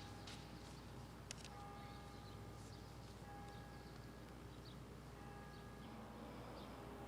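Faint birdsong outdoors: scattered high chirps and a few short, held whistle-like notes, with one sharp click a little over a second in.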